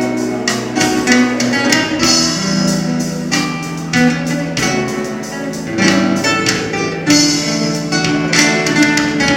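Solo acoustic guitar played as an instrumental: a quick run of plucked notes over held bass notes.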